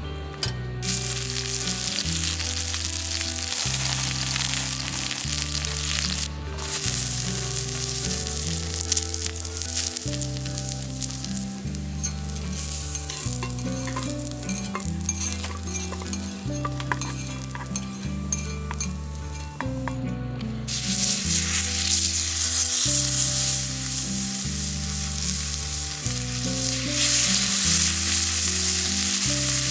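Food sizzling as it fries in a pan, cutting out briefly twice, about 6 and 20 seconds in, and louder after that. Background music with a steady bass line plays underneath.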